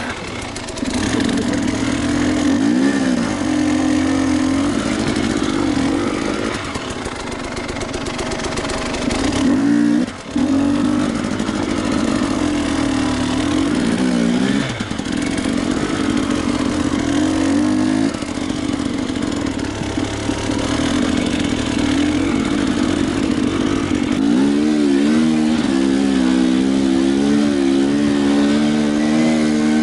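Enduro motorcycle engine revving up and down in repeated surges, then running at a steadier pitch near the end.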